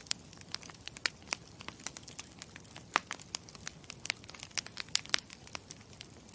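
Campfire crackling: a low steady burning noise with frequent sharp, irregular pops and snaps of burning wood.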